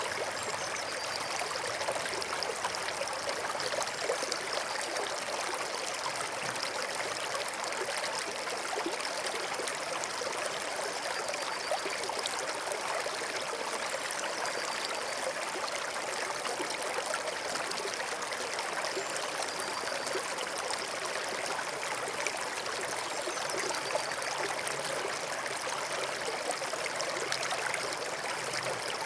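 Forest stream running steadily, an even trickling and gurgling flow of water with no breaks.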